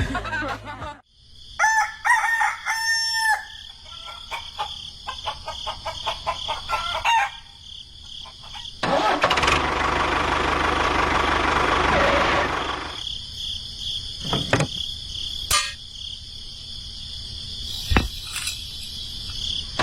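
A rooster crows about two seconds in, over a steady high-pitched whine. Later comes a few seconds of loud rushing noise and a few sharp clicks.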